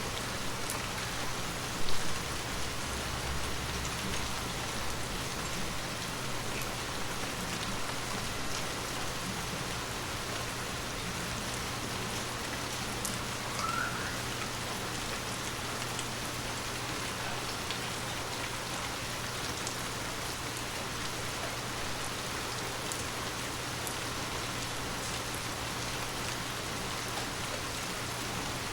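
Heavy, steady rain falling, with scattered drops ticking close by and one louder drop hit about two seconds in.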